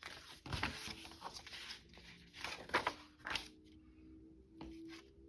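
Paper and craft tools being handled on a tabletop: rustling with several light knocks, dying down in the second half.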